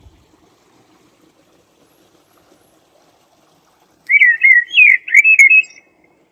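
A small songbird sings one short, loud warbling phrase of quick rising and falling notes, starting about four seconds in and lasting under two seconds.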